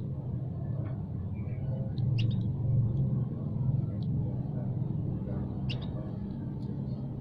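A low, steady rumble, with a songbird giving a few short, high chirps about two seconds in and again near six seconds.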